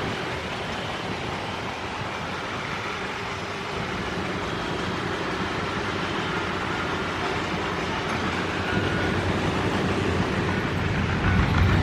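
A vehicle running nearby, its steady noise and low rumble slowly getting louder toward the end.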